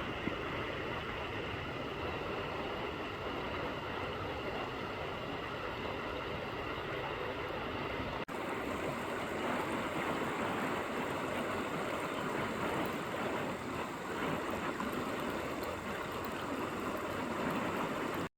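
River water running: a steady rushing sound that shifts abruptly about eight seconds in and is a little louder afterwards.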